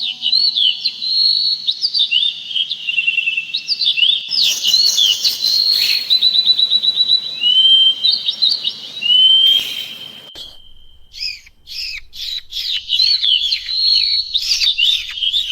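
Songbirds singing: a busy run of quick chirps, rapid trills and slurred whistled notes, often overlapping. A short gap comes about two-thirds of the way through, then the song resumes.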